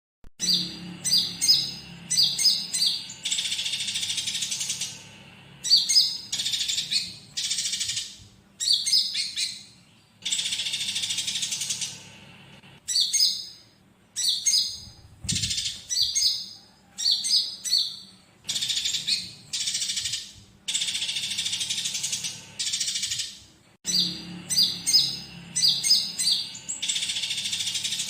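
Bird-tutor recording of olive-backed sunbird song laced with fighting house sparrow chatter: bursts of quick, sharp high chirps alternate with longer dense rasping trills of a second or two, over and over, starting right after a silent gap.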